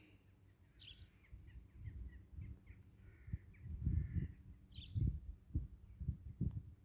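Faint bird chirps and short calls, with a few dull low bumps in the second half.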